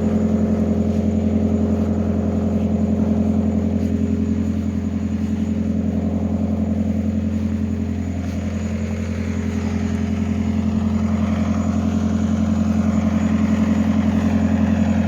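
Diesel engine of a Fiat Hitachi FH150 excavator running steadily. Its level dips a little about halfway through and rises again near the end.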